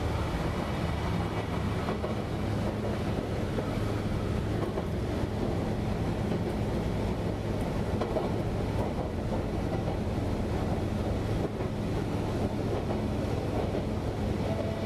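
Running noise inside a 1970-built Nankai 2230-series commuter train car as it travels along the track: a steady rumble with a low hum.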